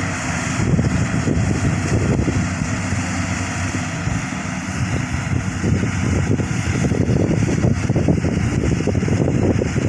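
Engine of a rice combine harvester running steadily, a low even drone mixed with rough noise.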